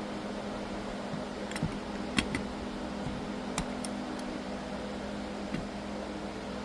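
A few light, sharp clicks and taps of small metal carburetor parts being handled and set in place, over a steady background hum.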